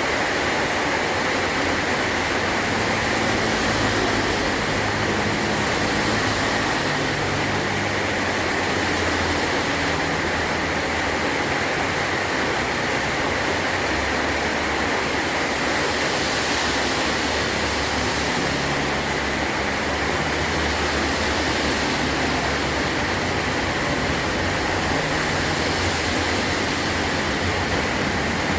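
Heavy rain pouring steadily on a metal roof.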